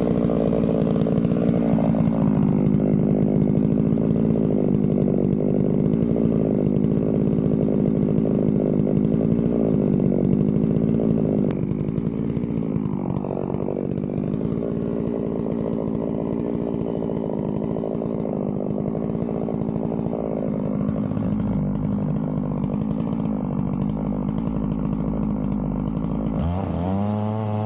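Two-stroke chainsaw on a chainsaw mill running under load, its engine pitch held down and wavering slightly as the chain rips along the log. Near the end the pitch climbs as the saw frees up and revs higher.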